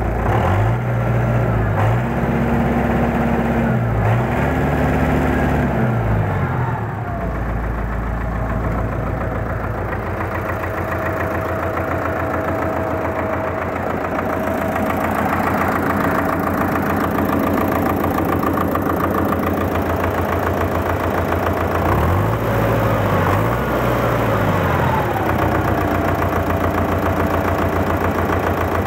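D-243 four-cylinder diesel engine running evenly after a fuel injection pump repair. It is blipped up and back down three times in the first few seconds and twice more about two-thirds of the way through, settling back to idle between.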